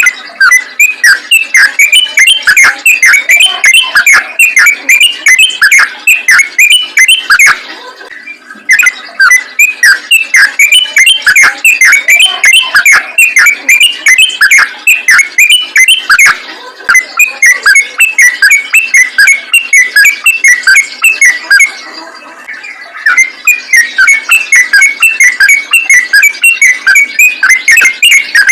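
Yellow-vented bulbul (trucukan) singing fast, a loud unbroken run of short chirping notes several a second, stopping briefly about 8, 16 and 22 seconds in.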